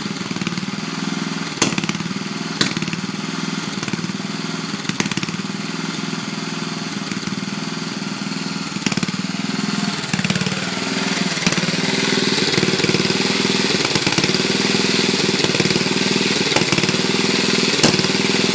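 Racing lawn tractor's Briggs & Stratton engine running steadily on a dose of Seafoam, with a few sharp clicks; it gets louder about twelve seconds in.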